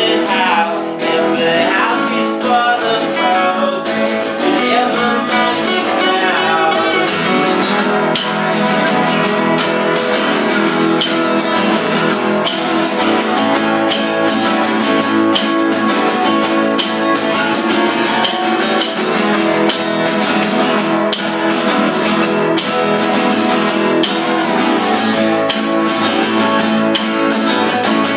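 Acoustic band playing a song live: strummed acoustic guitar, with short percussion accents falling at a steady beat from about a third of the way in.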